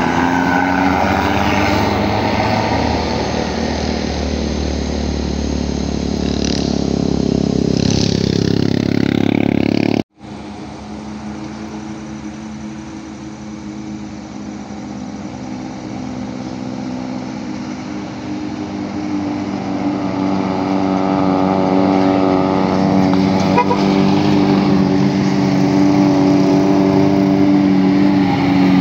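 Heavy road vehicle engines passing on a mountain bend: one engine runs steadily, the sound breaks off abruptly about ten seconds in, then another heavy vehicle's engine grows steadily louder as it approaches.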